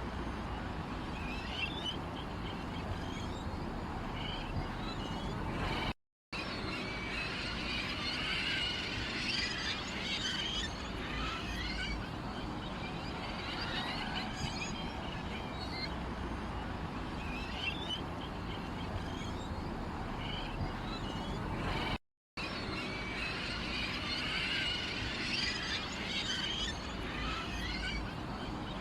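Small birds chirping in a dense, continuous chorus of short calls, over a steady low background noise. The sound cuts out completely for a moment twice, about six seconds in and again near twenty-two seconds.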